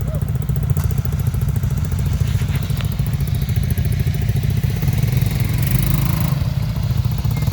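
ATV engine running steadily at a constant pace, a continuous low engine drone with faint rattling over it.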